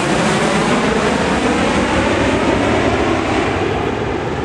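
Airplane flying low overhead, its engines making a loud, steady rushing noise that starts to fade near the end as it moves away.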